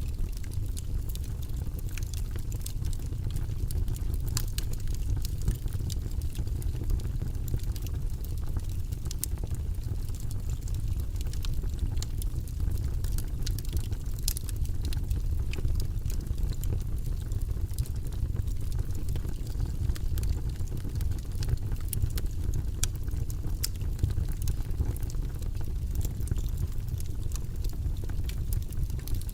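Wood fire burning in a fireplace: a steady low rumble of flames with frequent small, sharp crackles and pops from the burning logs.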